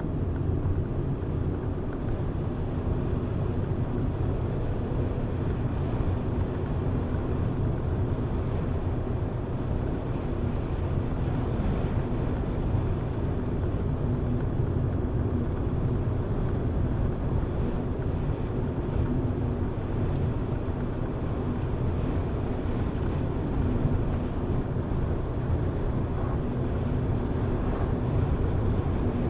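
A car driving at steady speed: its engine and tyres on the road make a continuous low rumble, with a faint steady hum.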